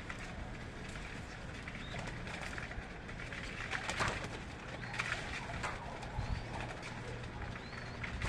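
Birds calling over a steady low hum, with a couple of short high chirps near the end.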